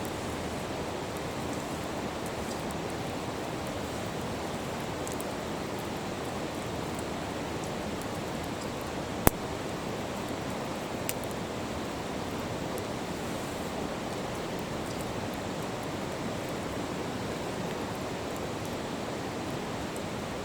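A fast river rushing steadily, a dense even roar of water. It is broken by one sharp pop about nine seconds in and a fainter one two seconds later.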